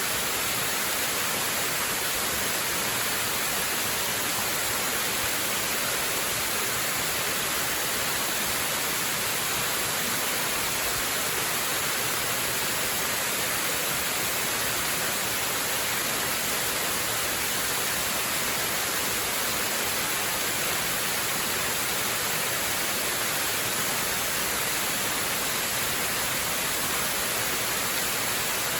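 Waterfall: a steady, unbroken rush of falling water, hissy and bright with little deep rumble.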